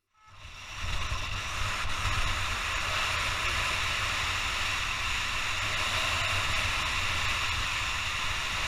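Steady rushing wind noise on a helmet camera during a motorcycle ride, with a low rumble underneath; it fades in over about the first second.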